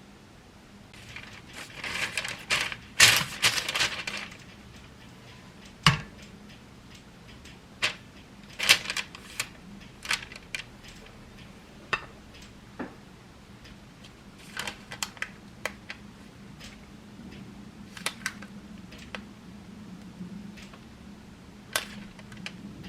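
Kitchen utensils and dishes clattering and clinking: a dense run of clatter about one to four seconds in, then scattered single clicks and taps.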